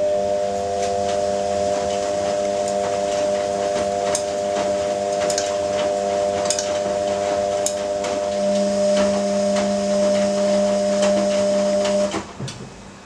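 Ariston AQXL95 washing machine running: a steady motor hum with several fixed tones and irregular clicks and knocks, the hum growing stronger in its lowest note about eight seconds in and cutting off about twelve seconds in.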